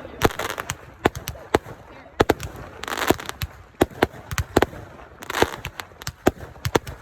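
Consumer fireworks going off: a rapid, irregular string of sharp bangs, with short bursts of crackle a few times.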